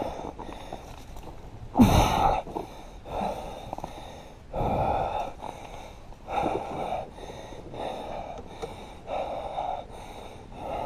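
A winded rider's heavy mouth breathing: a loud, rasping breath every second or so, with the loudest about two seconds in.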